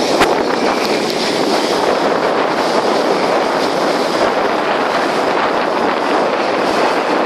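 Steady rush of wind buffeting the microphone, with the noise of a boat underway beneath it.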